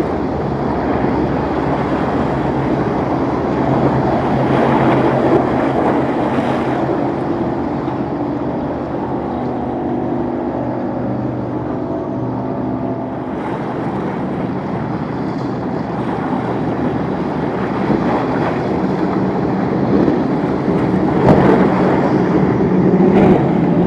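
Motorboat engines running through a rough inlet, mixed with waves and wind on the microphone. A steady engine hum stands out in the middle, and the sound grows louder near the end.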